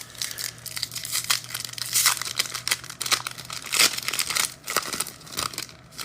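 Foil wrapper of a trading-card pack being torn open and crinkled by hand, with irregular crackling that comes in several bursts.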